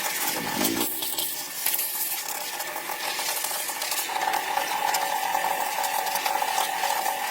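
Light metallic clinking and rattling, like small metal parts and tools being handled, over a steady high hum that grows louder about four seconds in.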